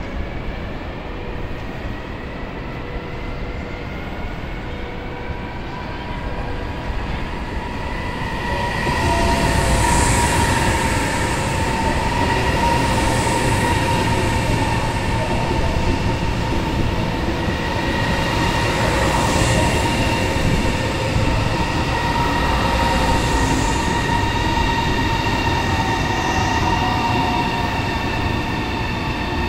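CRH380BL high-speed electric train pulling into a station at low speed. A steady electric whine slowly rises as it approaches. From about eight seconds in, a louder wheel-on-rail rumble takes over as the cars pass close by, with a brief high swish every three seconds or so.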